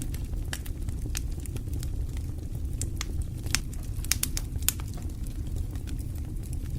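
Wood fire burning in a fireplace: a steady low rumble of the flames with irregular sharp crackles and pops, which come thickest about halfway through.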